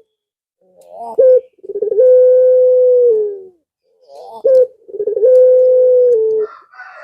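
Male puter pelung (a long-cooing domestic dove) calling twice. Each call is a short rising note followed by a long, drawn-out, steady coo of about two seconds that drops in pitch at the end.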